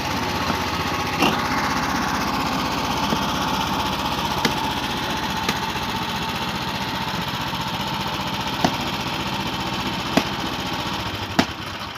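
An engine running steadily at idle, with a handful of sharp knocks over it. The engine sound falls away near the end.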